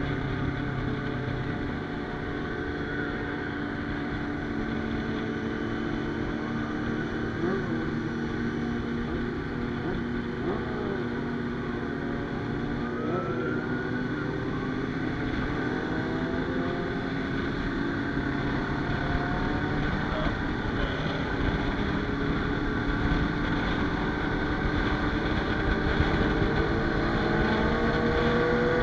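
Motorcycle engine running at cruising speed on the road, with wind rumble on the microphone; a few rises and falls in engine pitch, and the sound grows louder over the second half.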